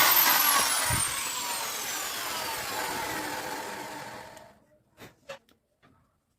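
Small electric motor whirring, then winding down with a falling pitch after being switched off, coasting to a stop about four and a half seconds in. A few light clicks follow.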